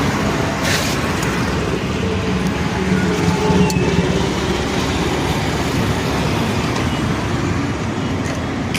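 Steady running of motor vehicles, an engine and road traffic, with a short burst of hiss about a second in.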